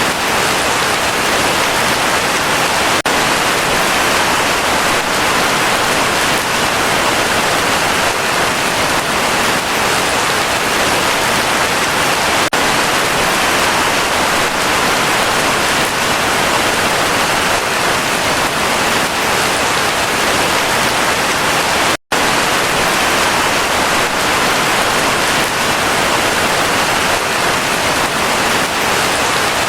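Heavy rain falling steadily as a dense, even hiss, cutting out for an instant about two-thirds of the way through.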